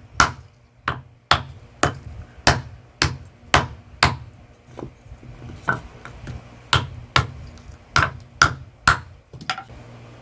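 Blacksmith's hammer blows, about fifteen sharp strikes at roughly two a second, each with a short ring, stopping about nine and a half seconds in. A faint low hum runs underneath.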